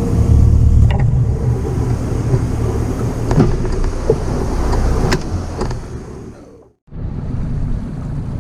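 Boat running on the water: a steady low rumble of the outboard motor with wind noise and a few knocks. The sound fades out and cuts to silence just before seven seconds in, then comes straight back.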